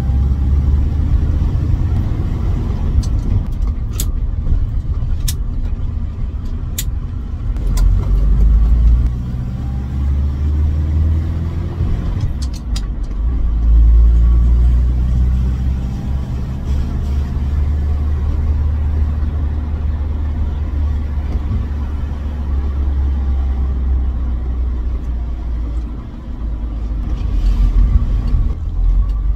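Morris 1800S 'Landcrab' four-cylinder engine and road noise under way, a steady low rumble that swells and eases as the car climbs and corners. A few sharp clicks sound in the first half.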